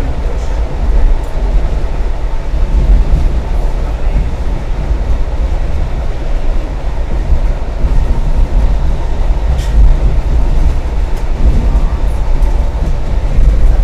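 Moving passenger train heard from inside the carriage: a steady low rumble of the wheels on the rails, with a light click about ten seconds in.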